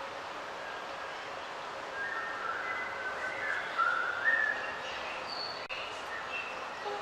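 Birds singing: a run of short, clear whistled notes that starts about two seconds in and is loudest near the middle, over a steady background hiss.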